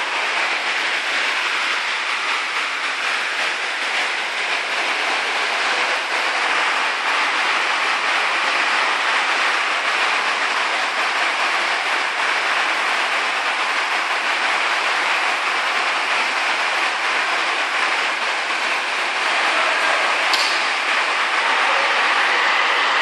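Heavy storm downpour falling steadily, a dense even hiss and patter with no letup, with one sharp click about twenty seconds in.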